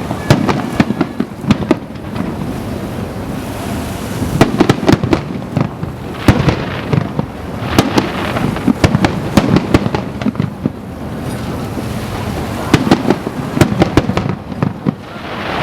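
Aerial fireworks bursting in a rapid barrage: a dense run of sharp bangs and booms over a continuous rumble, with the heaviest clusters in the middle and near the end, as in a starmine display.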